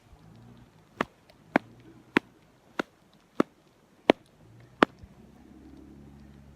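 Seven sharp clicks in an even rhythm, a little over half a second apart, over a faint low hum.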